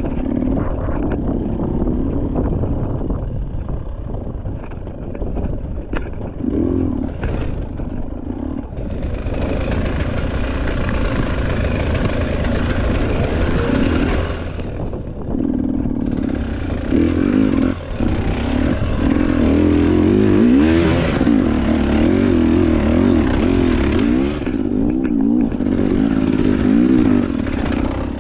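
Enduro dirt bike engine running as it is ridden, revving up and down. Long stretches of steady hiss lie over it from about a third of the way in.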